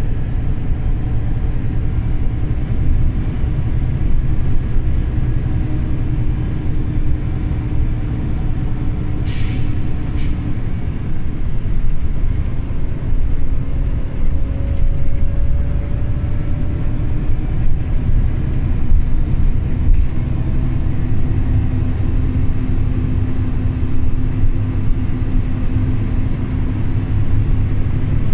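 Scania OmniLink CL94UB city bus under way, its engine and road rumble running steadily, heard from inside. About nine seconds in there is one short, sharp hiss of compressed air from the bus's air system.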